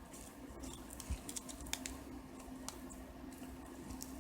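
Faint light clicks and rustling of a ribbon being handled and wrapped around by hand, over a faint steady hum.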